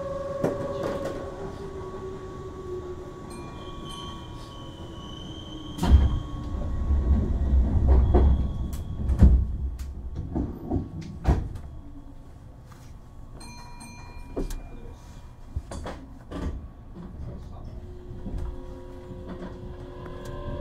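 Keihan 7200 series electric train heard from on board: a motor whine falls away at the start, heavy low rumbling and knocks follow in the middle, and a rising motor whine near the end as the train gathers speed.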